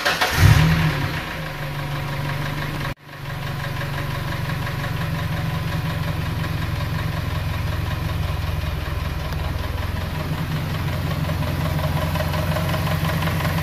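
Ford Ranger 2.3–2.5 L four-cylinder engine starting and flaring up briefly about half a second in, then settling to a steady idle. Over the idle there is a light lifter tick, which is quiet at this point. The sound drops out for an instant about three seconds in.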